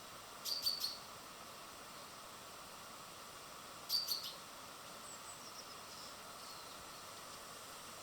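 Small birds chirping at a feeder: two brief clusters of sharp, high chirps about three seconds apart, with a few fainter calls after, over a steady background hiss.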